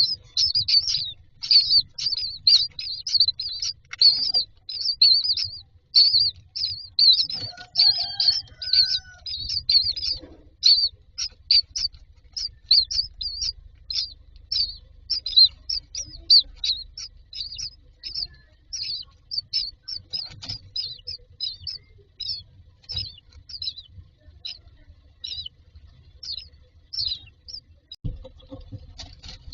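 Common myna nestlings begging in the nest box: a long run of rapid, high-pitched chirps, about three a second at first, growing sparser and stopping shortly before the end.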